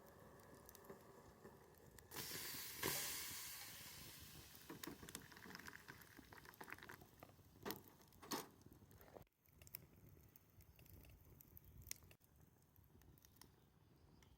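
Wood bonfire crackling faintly with scattered sharp pops, and a hiss that rises about two seconds in and fades over the next few seconds.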